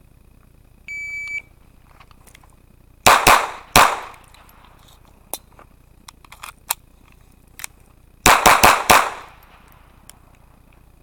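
Shot-timer start beep, then a GSG 1911 .22LR pistol firing three quick shots, a few light clicks, and a second rapid string of four shots.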